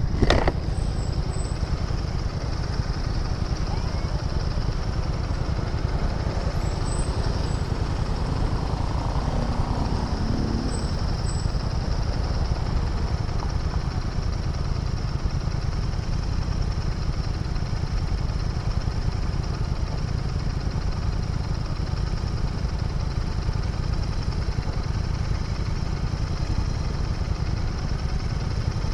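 Royal Enfield Interceptor 650's parallel-twin engine running at a steady low, even note with no change in revs. A single sharp click sounds just after the start.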